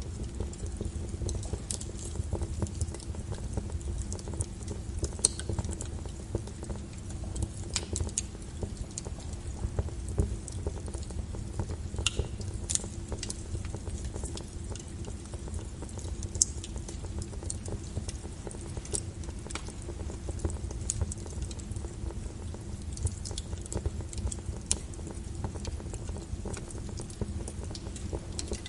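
Wood logs burning in a fireplace: a steady low rumble of the fire with irregular crackles throughout and a few louder, sharper pops.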